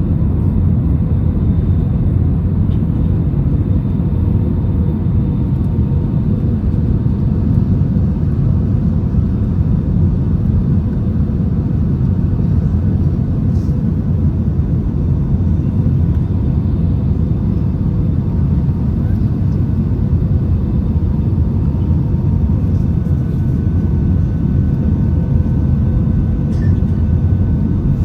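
Steady low rumble of engines and airflow inside an Airbus A320-200 cabin, with a few faint steady tones above it and no marked change in level.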